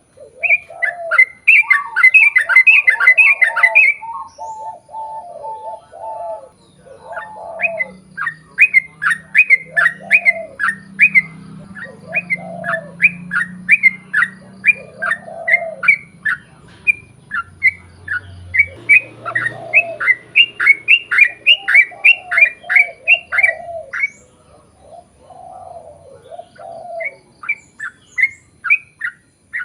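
Yellow-vented bulbul singing long, rapid runs of short downward-slurred whistled notes, several notes a second, in bursts broken by brief pauses. Lower, softer repeated notes from another bird, dove-like coos, sound between them.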